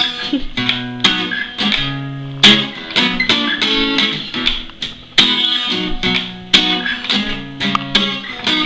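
Guitar intro: plucked notes and chords picked in a steady pattern, each one ringing and fading before the next.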